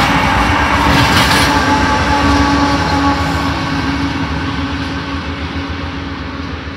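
Union Pacific diesel locomotives of a freight train passing close by, engines running with a steady hum over the rumble of wheels on rail. The sound slowly fades as the units move away.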